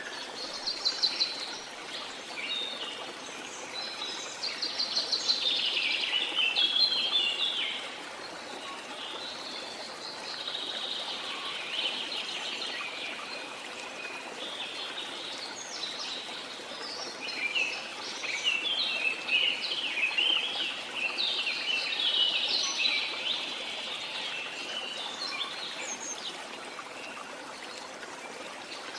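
Several birds singing and chirping in quick trills and warbles over a steady rush of running water, with the loudest song from about four to eight seconds in and again from about seventeen to twenty-three seconds in.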